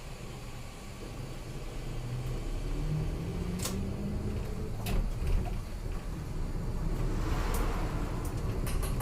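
Route bus engine heard from inside the cabin, its note rising as the bus accelerates, with a couple of sharp cabin rattles and a brief hiss near the end.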